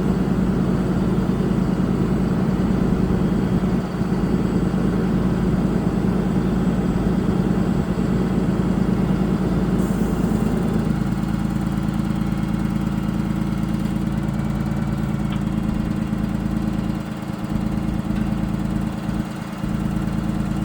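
2014 Freightliner bucket truck's diesel engine idling steadily, its note shifting about halfway through.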